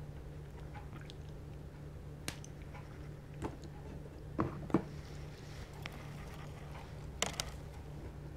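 Biting into and chewing sauce-dipped crispy fried chicken: a few short, wet crunches and mouth clicks scattered through, the loudest pair about four and a half seconds in, over a steady low hum.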